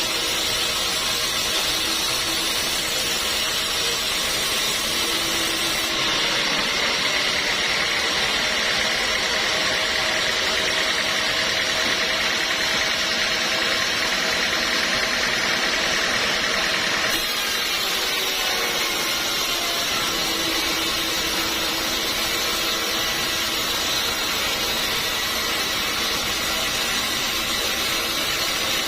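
Sawmill machinery running steadily, a continuous mechanical drone with a few steady tones in it. Its tone changes abruptly about six seconds in and again around seventeen seconds.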